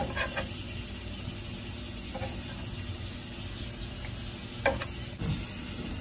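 Chicken pieces sizzling steadily as they fry in bacon grease in a nonstick skillet, with two sharp clicks of metal tongs against the pan, one at the start and one about four and a half seconds in.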